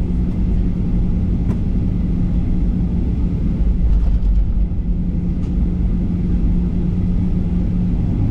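Steady low cabin rumble of a Boeing 737-800 on the ground, with an even hum under it and a few faint ticks.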